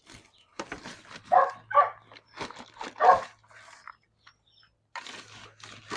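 A dog barking a few short barks, mixed with scattered rustling and clicks.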